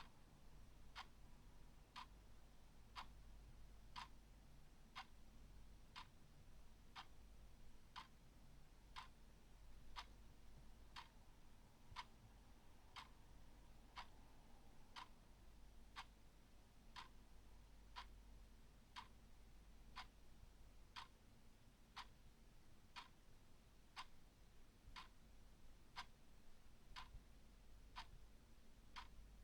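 Clock ticking steadily and quietly, about two ticks a second in an even tick-tock rhythm.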